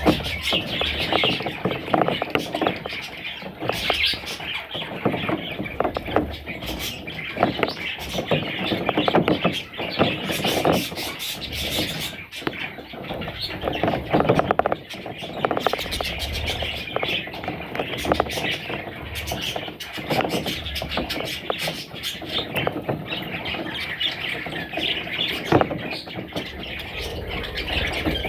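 Budgerigars chirping and squealing in constant chatter, with many short clicks mixed in.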